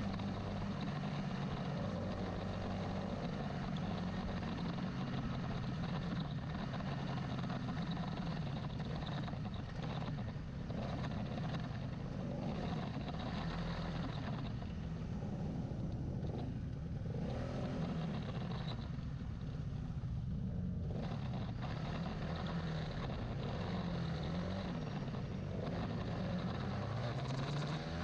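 Carbureted Honda CBR150R single-cylinder engine running, its speed rising and falling repeatedly with a quicker rev near the end, on a test after its final carb setting.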